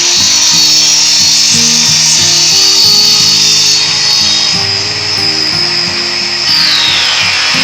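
Background music over the high-pitched whine of a CNC panel saw's spinning blade. The whine drops in pitch near the end.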